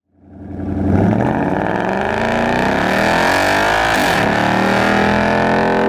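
2015 Ford Mustang GT's 5.0-litre V8 under hard acceleration, its note climbing in pitch for the first few seconds, with a brief break about four seconds in, then holding steady at high revs. The sound fades in at the start.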